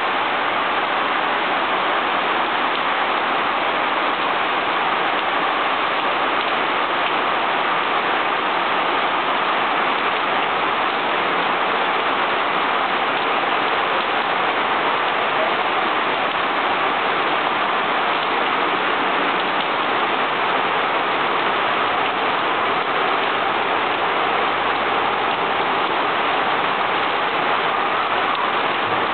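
Heavy monsoon rain pouring steadily on the trees of a rubber plantation, an even, unbroken hiss.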